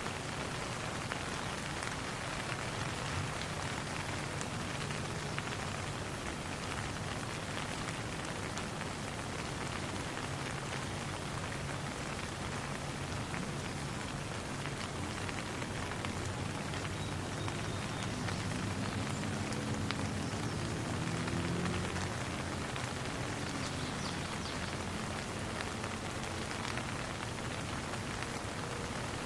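Steady rain falling on a pond, an even patter and hiss with faint low tones underneath that swell slightly a little past the middle.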